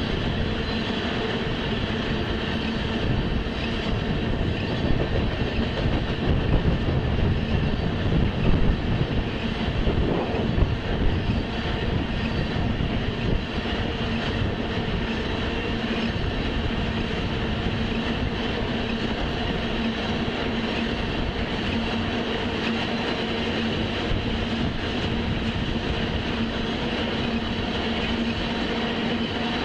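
Tank-car freight train rolling past, heard through a webcam microphone: a steady rumble of steel wheels on rail with a faint steady hum under it. It grows louder and rougher with irregular clacks between about five and eleven seconds in, then settles back to an even run.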